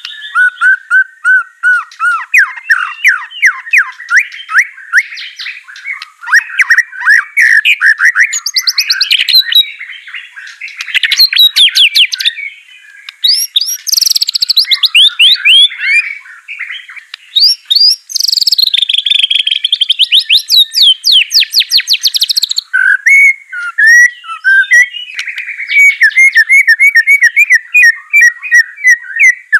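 White-rumped shama (murai batu) singing a loud, continuous song of rapid, ever-changing phrases: fast trills, sweeping whistled notes and quick repeated note series, with hardly a pause.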